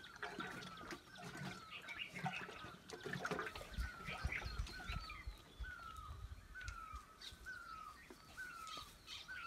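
Birdsong: one bird repeats a short falling call about every 0.7 seconds, while other birds chirp higher.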